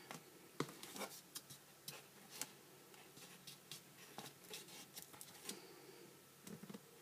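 Faint scattered taps and rustles of a cardboard piece being pressed down by hand to set the glue.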